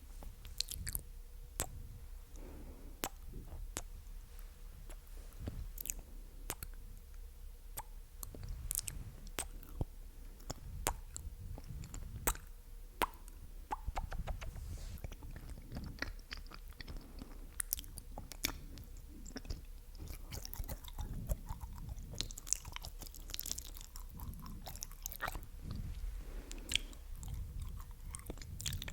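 Close-miked ASMR mouth sounds: wet, sticky clicks and smacks of the lips and tongue, coming irregularly several times a second.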